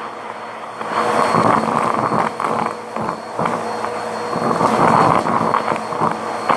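Vacuum cleaner running over carpet, its noise swelling and dipping every second or two, with a faint steady motor whine on top.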